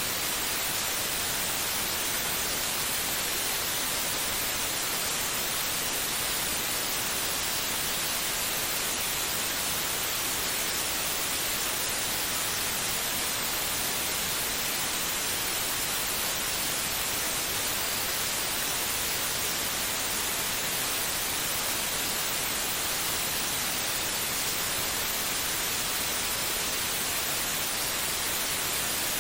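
Steady white noise, an even hiss weighted toward the highs that does not change, played as a baby-soothing sleep sound.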